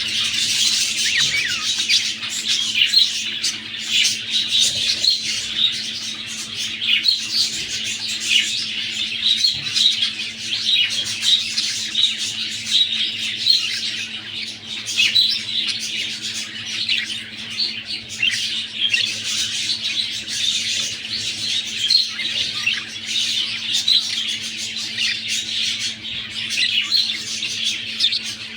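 Budgerigars chattering and squawking without a break, many short high chirps overlapping, with a faint steady hum underneath.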